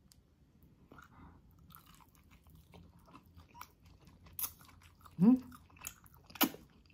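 Close mouth sounds of someone eating braised beef rib meat off the bone: soft wet chewing and lip smacks. About five seconds in comes a short rising hum, the loudest sound, and a sharp smack follows near the end.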